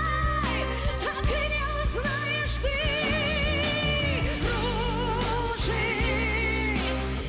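Pop song: a woman's voice singing long, wavering held notes over a steady bass line.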